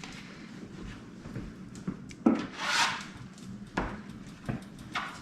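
A sharp knock, then a short scraping rub and a few lighter clicks: kitchen utensils working a slow-cooked roast out of the slow cooker.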